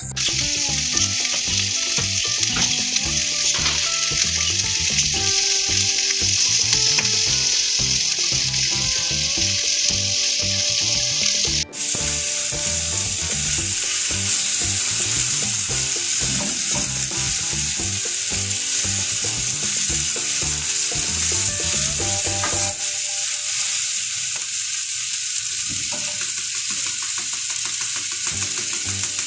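Potato strips frying in a pot of hot oil: a steady sizzle that breaks off briefly about twelve seconds in, then carries on.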